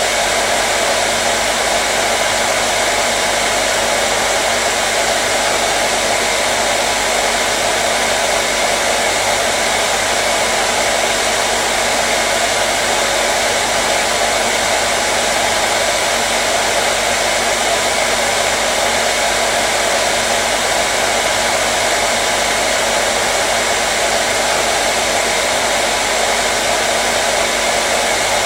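Hair dryer running steadily: a loud, constant whoosh of blown air with a faint steady motor hum, unchanging throughout.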